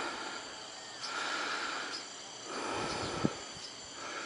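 Rainforest insects calling in repeated swells, each lasting about a second, roughly every second and a half. A single short knock about three seconds in.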